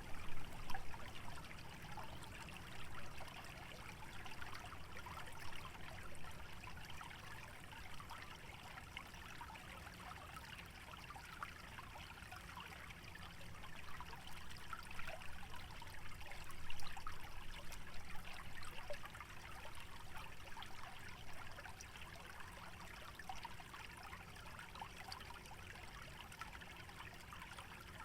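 Shallow stream trickling through a wetland: a steady babble of small gurgles and splashes, with a slightly louder gurgle now and then.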